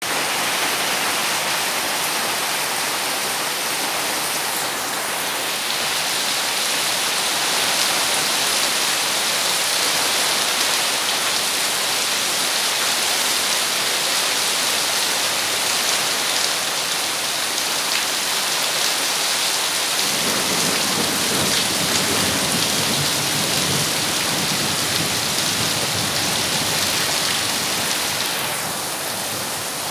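Heavy rain pouring steadily onto grass, trees and a puddled yard. A low rumble joins the hiss for several seconds about two-thirds of the way through.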